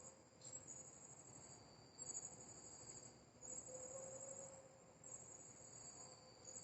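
Night insects trilling faintly: high-pitched pulsed trills about a second long, repeating every second or so, over a faint steady low hum.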